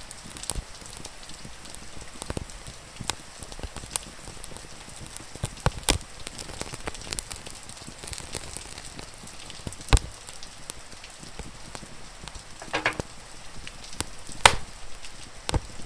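Wood fire crackling, with irregular sharp pops and snaps, a few of them loud, over a steady hiss of rain.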